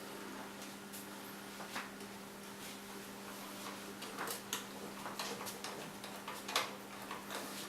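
Irregular small clicks and scrapes of a screwdriver driving a screw with a washer into a heater's thermal fuse assembly, growing more frequent in the second half, over a steady low hum.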